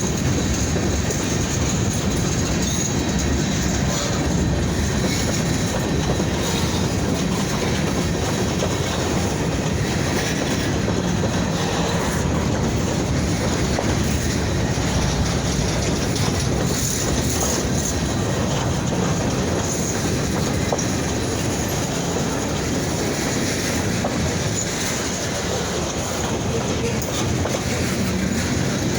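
Kiamichi Railroad freight train rolling past, a loud, steady rumble of its cars' steel wheels on the rails.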